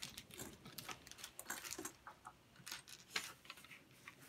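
LEGO bricks being handled and pressed together: an irregular run of small plastic clicks and rattles.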